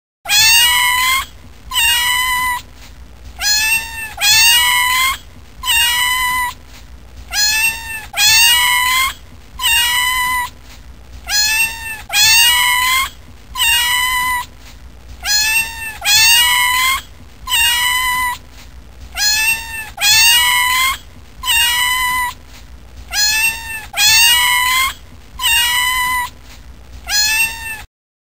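Kitten meowing over and over: about twenty short, high-pitched mews, each rising then falling in pitch, one every second or so.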